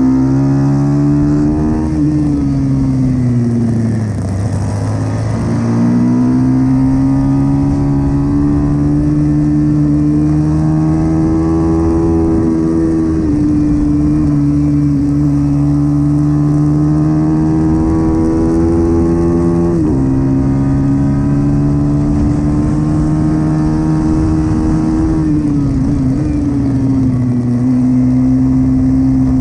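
Pit bike's small single-cylinder four-stroke engine running hard through a race lap, its revs falling and climbing. The engine note dips about three seconds in and again near the end, and drops suddenly twice in between.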